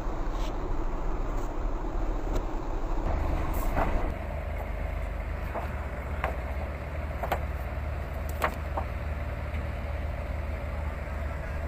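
River cargo boat (motor jukung) engines running steadily. Their low hum changes pitch about three seconds in, and several sharp knocks come between about four and nine seconds in.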